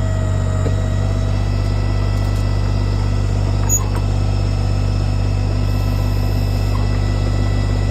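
Kubota tractor's diesel engine running at a steady speed, with one brief click about halfway through.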